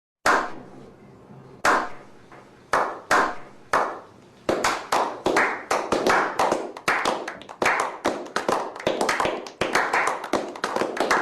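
Slow clap: a few single hand claps spaced about a second apart, then quickening into steady clapping of about three claps a second, each with a short ringing tail.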